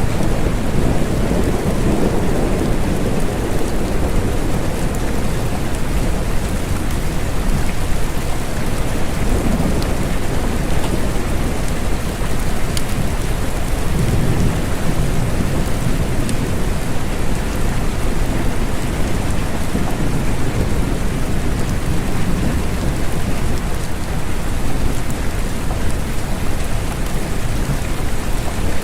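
Steady rain falling, with low rumbles of thunder swelling and fading every several seconds.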